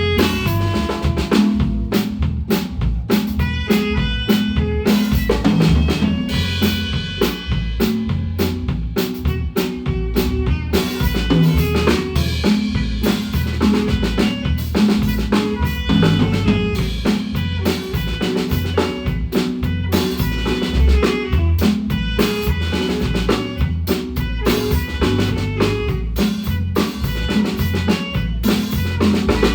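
A Guatemalan marimba band playing a tune together with a drum kit: a steady snare and bass drum beat, a moving bass line and quick pitched notes above.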